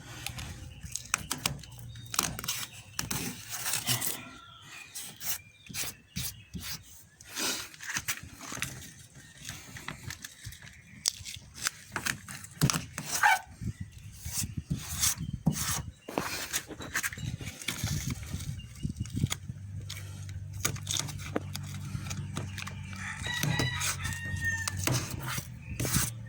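A rooster crowing, twice, over scattered clicks and knocks from handling a car door and its panel; a low steady hum comes in about two-thirds of the way through.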